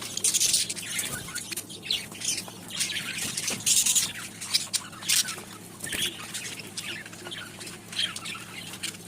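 Small pet parrots in a colony squawking and chattering, with short harsh calls coming in irregular bursts every second or so.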